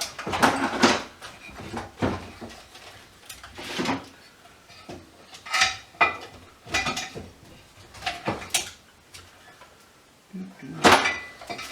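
Tools clicking, knocking and scraping against the metal and plastic parts of a variable frequency drive in irregular strokes, as a glued-in component is pried loose.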